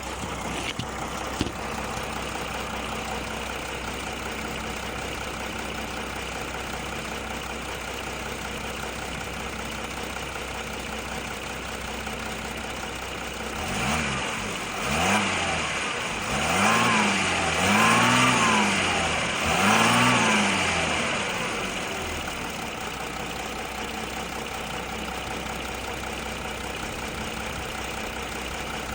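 Audi A4 2.7 TDI V6 diesel engine idling, then revved in about five short throttle blips, each rising and falling in pitch, before settling back to idle. The engine has a ticking sound that the owner is chasing.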